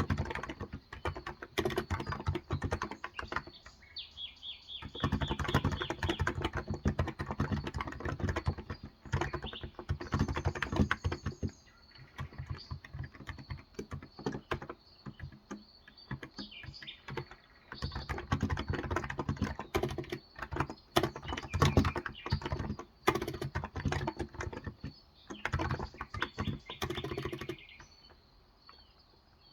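Typing on a Cox Endeavor electro-capacitive (Topre-style, 35 g) tenkeyless keyboard, in quick runs of keystrokes broken by short pauses. Birds chirp briefly in the background a few times.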